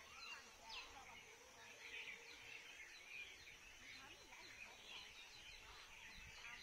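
Faint, scattered bird chirps and twitters over quiet outdoor background noise.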